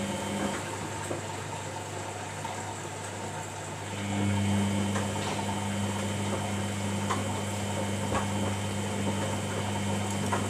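Samsung front-loading washing machine humming steadily during its cool-down stage, with water hissing faintly; the hum stops about half a second in and starts again about four seconds in.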